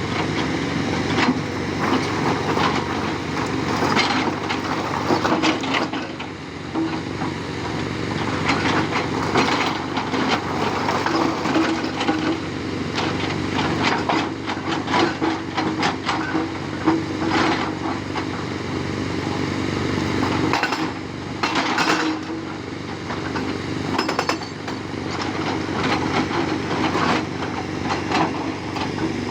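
Tata Hitachi 200 excavator's diesel engine running steadily while its hydraulic rock breaker hammers in repeated spells of rapid blows.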